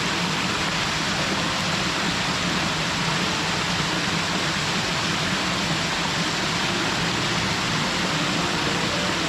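Mountain waterfall pouring into a gorge: a steady, even rush of falling water with no pauses.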